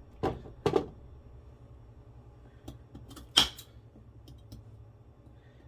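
Kitchen knife chopping carrots on a cutting board: two sharp chops within the first second, a few lighter taps, and the loudest chop about three and a half seconds in.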